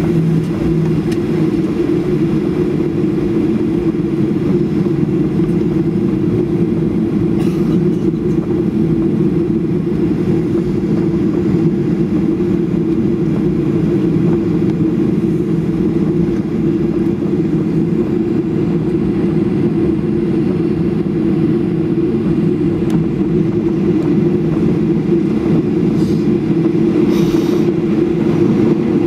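Steady low drone inside a Boeing 737 cabin during pushback, from the aircraft's air-conditioning and engines.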